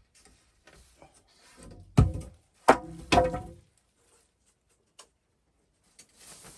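Scattered light clicks and rustles of handling, then three heavy knocks in quick succession, each ringing briefly.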